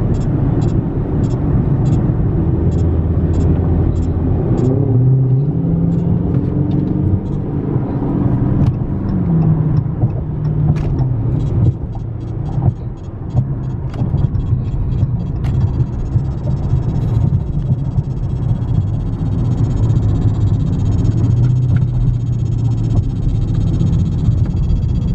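Dodge Charger 392 Scat Pack's 6.4-litre Hemi V8 running on the move, its pitch rising twice as it picks up revs and then easing off. A regular clicking, about three a second, runs over it at the start and again in the middle.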